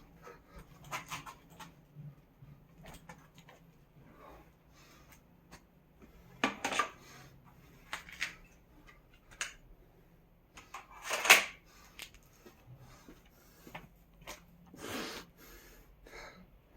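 Scattered knocks and clicks of objects being handled, like household items being moved about, with the loudest knock about eleven seconds in.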